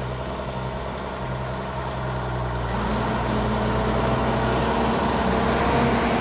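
Diesel semi truck engine running steadily, getting a little louder as a higher hum joins about three seconds in.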